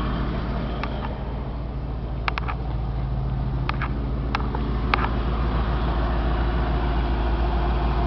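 1994 Ford F600 box truck's 7.0-liter V8 engine idling steadily with a low, even hum. A few brief sharp clicks are heard over it in the first five seconds.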